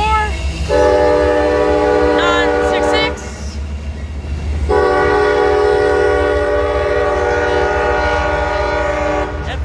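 Diesel freight locomotive's multi-chime horn sounding two long blasts over the low rumble of the idling locomotive. Two long blasts is the standard railroad signal for releasing brakes and proceeding.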